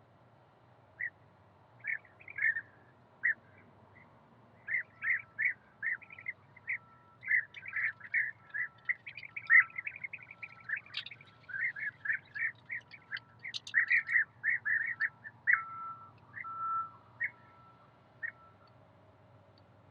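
Birds chirping: many short, quick chirps, a few at first, then a dense run in the middle, thinning out near the end.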